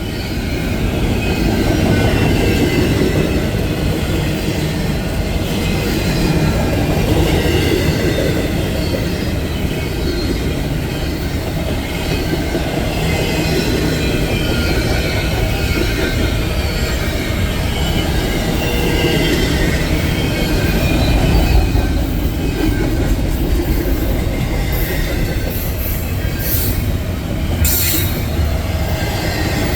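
Train rolling past, a steady loud rumble of wheels on rail with wavering high-pitched squeal from the wheels. A few sharp clicks come near the end.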